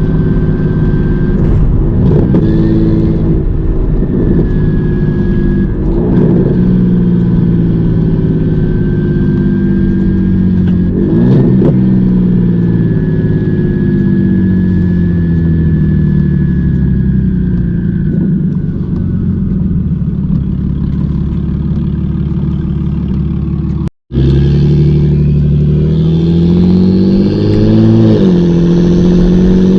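Single-turbo BMW 335i N54 inline-six with a hood-exit downpipe under way, its revs climbing and falling through the gears, with a few sharp cracks and a thin high whine over the engine note. The sound cuts out for an instant about 24 seconds in.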